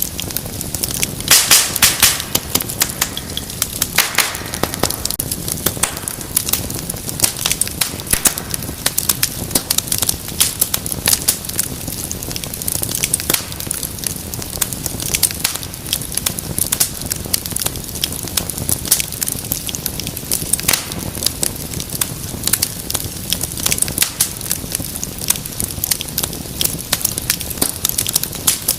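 Wood fire crackling steadily with dense snaps and sharp pops over a low rumble of the flames, with a cluster of louder pops about a second in and again around four seconds.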